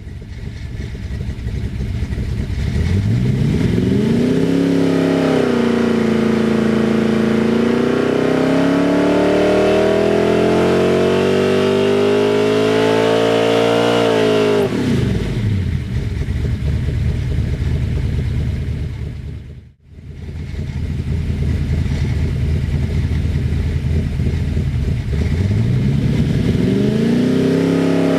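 Ford 289 small-block V8 running on an engine dyno. The revs climb to a brief hold, rise steadily through a pull of about eight seconds, then drop back sharply. After a short break in the sound just past the middle, the engine runs again and revs up near the end.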